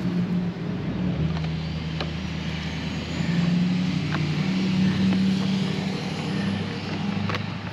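A motor vehicle's engine running steadily, its low hum shifting slightly in pitch, with a few faint clicks.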